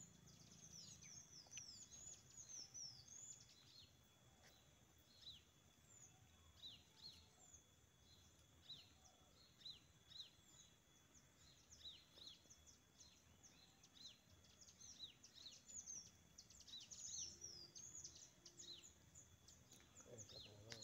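Faint chirping of small birds: many short, high calls that slide downward, coming in loose clusters throughout, over a low background hum.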